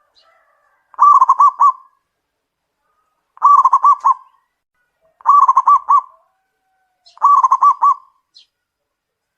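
Zebra dove (perkutut) cooing: four short phrases about two seconds apart, each a quick run of rolling notes.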